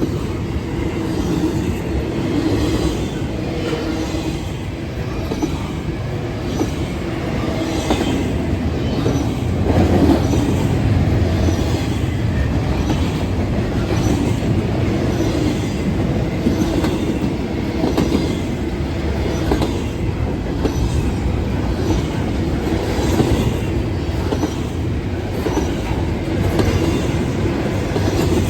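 Freight train cars rolling past at steady speed, the steel wheels clacking over the rail joints with a continuous rumble.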